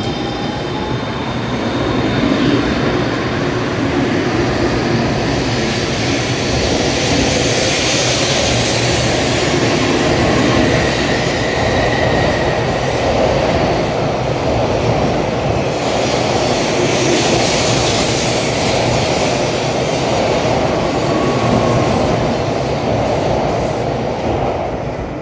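An N700S Shinkansen train pulling out of the station and gathering speed past the platform: a steady loud rush of wheels and running gear, with a faint rising motor whine near the start. The noise falls away near the end as the last car passes.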